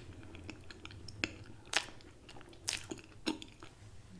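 Close-miked chewing and mouth sounds of a person eating, with a handful of sharp wet smacks, the loudest a little under two seconds in.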